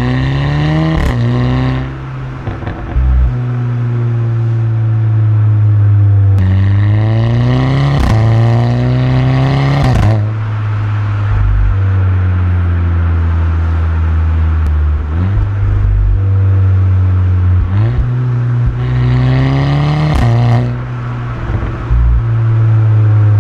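Volkswagen Mk6 Golf R's turbocharged four-cylinder engine through a resonator-deleted stock exhaust, revving up hard several times. The pitch climbs steeply and then drops suddenly with a sharp crack, and between pulls it falls away slowly.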